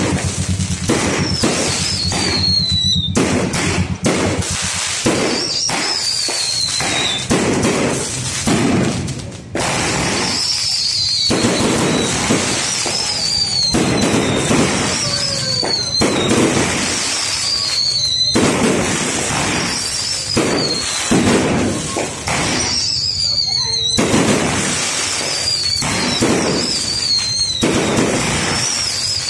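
Aerial fireworks going off in a dense, irregular barrage of bangs and crackles. Over them, a high whistle that falls in pitch recurs every two to three seconds.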